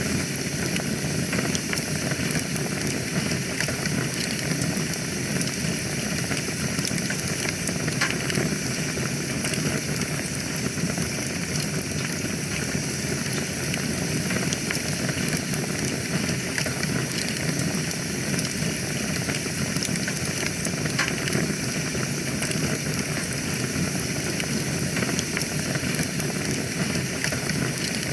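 Wood fire burning in a fireplace: a steady hiss with a few sharp crackling pops.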